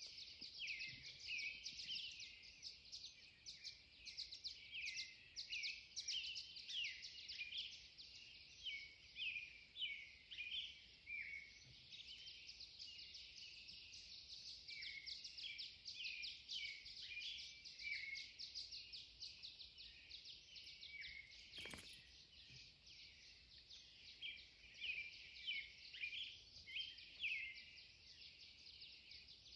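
Pre-dawn chorus of several songbirds: a dense, continuous stream of high chirps, trills and short down-slurred notes overlapping one another. There is a single sharp click about 22 seconds in.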